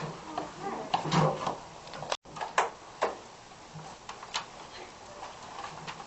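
A few sharp knocks and clatters over a faint murmur of voices, with a brief total dropout about two seconds in.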